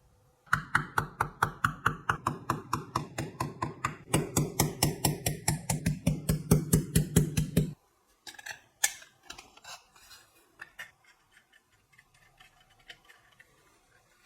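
Rapid, evenly repeated strokes of a hand tool, about six a second, growing louder about halfway through and stopping abruptly, followed by scattered light clicks and taps.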